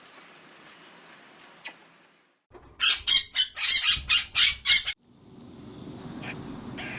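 A bird squawking harshly, about seven loud calls in quick succession over two seconds.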